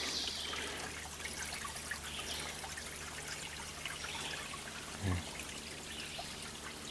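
Small stream trickling faintly and steadily. A brief soft thump about five seconds in.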